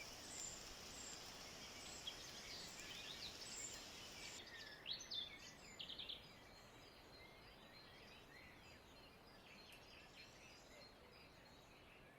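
Faint, scattered bird chirps over a quiet outdoor background, a few of them louder about five to six seconds in.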